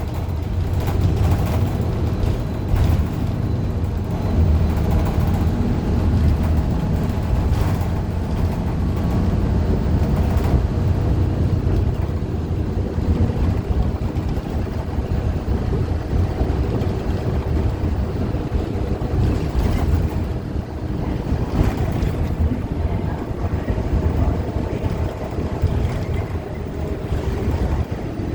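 A Gillig Low Floor CNG transit bus under way, heard from inside the cabin: its Cummins Westport ISL G engine and the road make a steady low rumble with a faint hum of steady tones above it.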